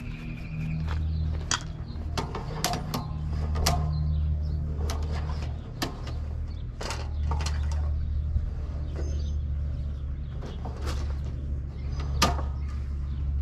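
Sewer camera push cable being handled and fed into a cleanout pipe, giving many irregular sharp clicks and knocks over a steady low hum.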